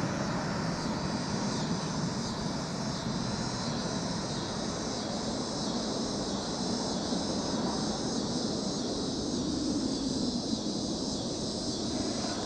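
Boeing 737 jet engines heard after the landing pass, a steady rumble that slowly eases off, with a constant high insect-like drone under it.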